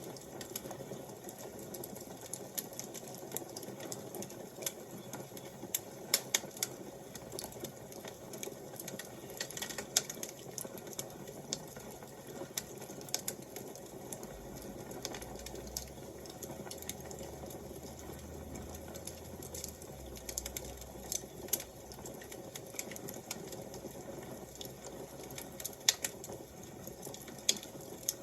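Wood fire crackling: irregular pops and snaps over a steady soft hiss.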